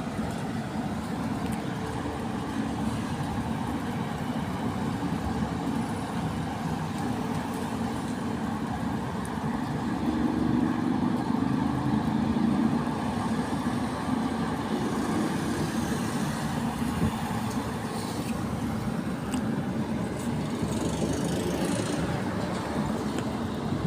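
Steady road-traffic noise with a constant hiss, swelling louder for a few seconds about ten seconds in as a vehicle's engine passes.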